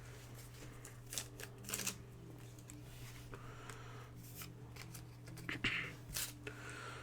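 Pokémon trading cards being handled and slid against each other: soft rustles and flicks with a few sharper taps.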